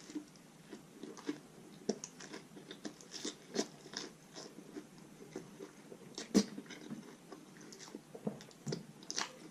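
Close-miked chewing and biting into a chicken taco in a crunchy taco shell: irregular crunches and wet mouth clicks, with one sharp, loud crunch about six and a half seconds in.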